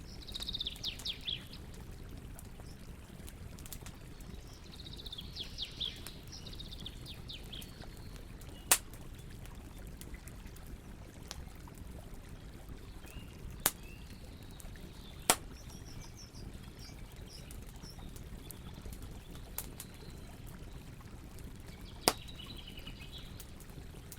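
Campfire burning with a steady low rumble and a few sharp loud pops, four of them spread through the stretch. Bird chirps in short rapid runs come near the start, around five seconds in, and again near the end.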